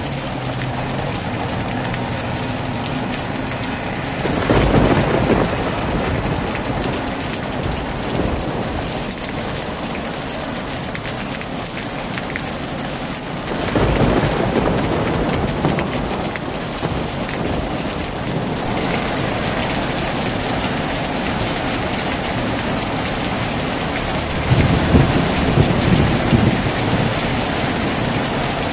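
Heavy rain falling steadily on a tin roof, with rolls of thunder rumbling three times: about four seconds in, near the middle, and near the end.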